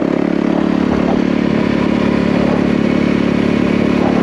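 Yamaha WR450F's single-cylinder four-stroke engine running under way at steady revs, its pitch holding even.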